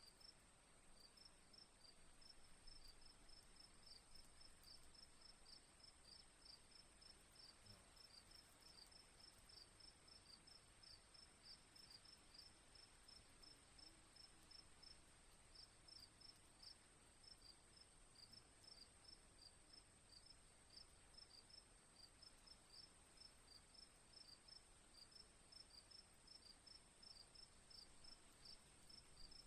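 Faint crickets chirping in quick, evenly repeated pulses over a steady high-pitched drone.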